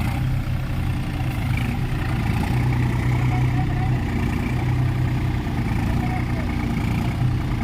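New Holland tractor's diesel engine running steadily at idle, an even low hum.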